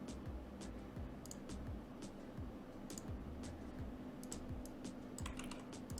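Scattered key presses on a computer keyboard, irregular taps a few per second, over a low steady hum.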